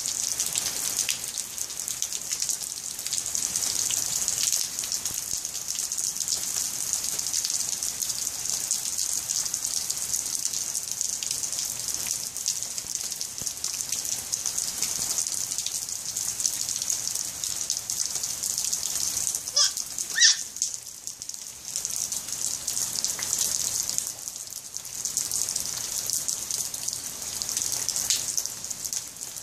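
Steady rain falling, an even hiss of drops. About two-thirds of the way in there is a brief high-pitched sound and then a sharp knock.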